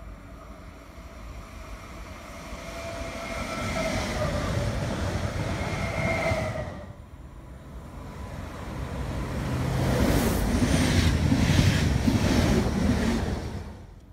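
Electric train approaching on the rails, its motors whining in steady tones that grow louder. About halfway the sound cuts off abruptly, and a second approach follows, swelling into a rumble with clattering wheels before it cuts off again at the end.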